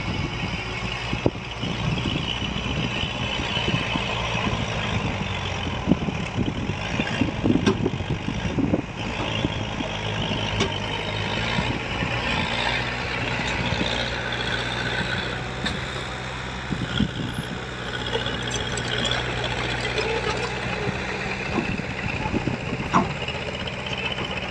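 Heavy diesel construction machinery running steadily, with scattered clanks and knocks from the working equipment.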